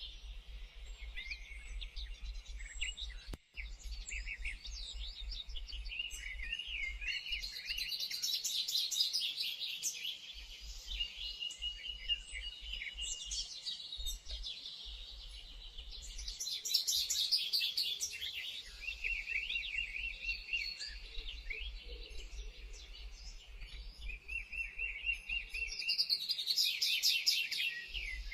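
Several songbirds singing and calling together: overlapping chirps, whistled slurs and repeated trills, with bursts of fast, high-pitched trilling now and then.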